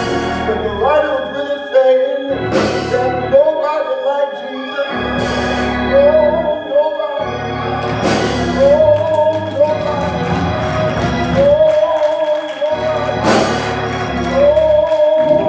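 Church organ, Hammond-style, playing sustained chords with a bass line, under a voice singing long, drawn-out phrases. A few sharp hits, like a cymbal or drum, land over it.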